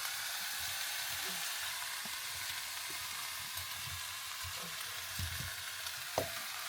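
Food sizzling in a pan set on a campfire, a steady frying hiss with a few soft crackles and one sharp pop near the end.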